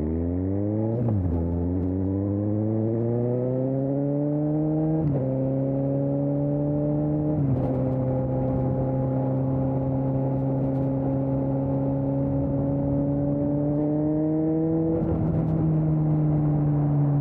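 Suzuki GSX-S750 inline-four engine through a Storm aftermarket exhaust, accelerating through three quick upshifts, each gear change a sharp dip in pitch before it climbs again. It then holds a steady cruise and eases off the throttle near the end, the pitch sinking slowly.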